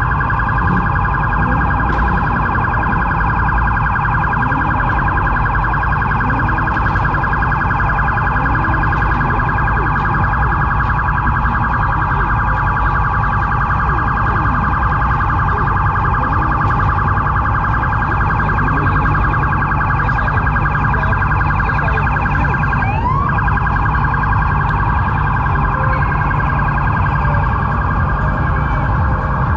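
Dodge Hellcat's supercharged 6.2-litre HEMI V8 running at a crawl: a deep steady rumble under a constant shrill, buzzing high-pitched tone, with a brief rising sweep about twenty-three seconds in.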